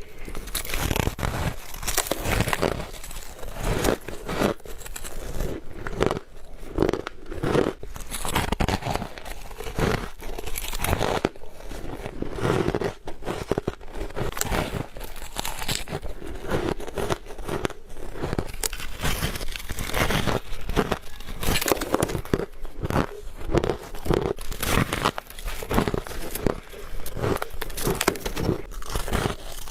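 Close-miked bites into ice: a continuous run of sharp, crackly crunches, several a second, as the ice is bitten and crushed between the teeth.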